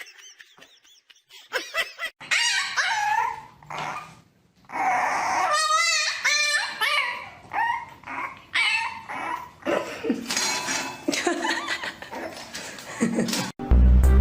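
A dog vocalising in a series of short calls that rise and fall in pitch, with brief pauses between them and one longer wavering call in the middle.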